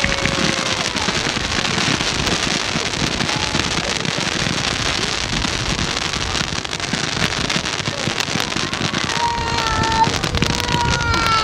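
Ground-level display fireworks, fountains and small comets, crackling and hissing without a break in a dense run of sharp crackles. A few short high tones come in over it near the end.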